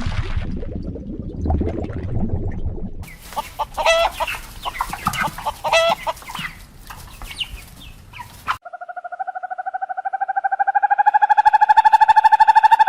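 Animal calls. First a low rumbling noise, then from about three seconds in a run of short, quickly changing calls. Near the middle it switches abruptly to one steady, rapidly pulsing call that rises slightly in pitch and grows louder.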